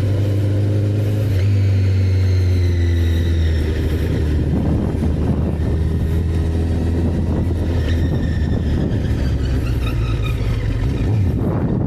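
Honda CBR1000RR Fireblade's inline-four engine running under way, a steady deep drone with the engine pitch dropping twice as the revs fall off.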